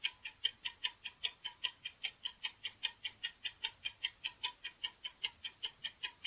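Clock-tick sound effect of a quiz countdown timer: fast, even ticks at about five a second.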